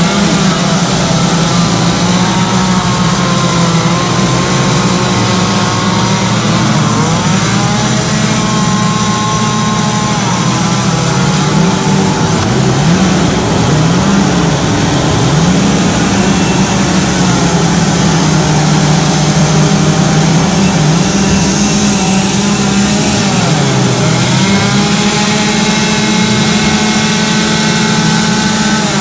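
Several two-stroke chainsaws running and cutting wood, their engine pitches rising and falling independently as the saws are revved up and eased off.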